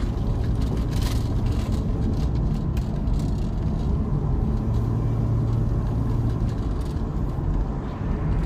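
Vehicle engine and road noise heard from inside the cabin while driving: a steady low rumble with a few faint knocks.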